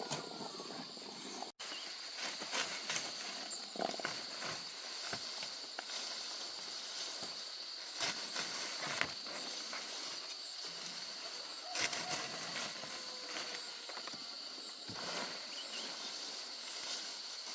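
Outdoor rural ambience: a steady high-pitched drone with scattered knocks and clicks, briefly cut off about a second and a half in.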